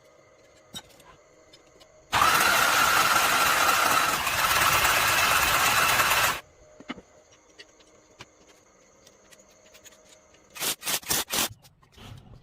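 A loud power tool or machine runs in one burst of about four seconds, starting and stopping abruptly, then gives four short bursts in quick succession near the end.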